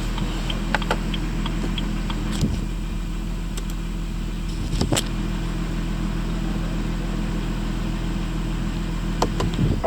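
BMW M140i's B58 3.0-litre turbocharged inline-six idling steadily, with a few light clicks over it.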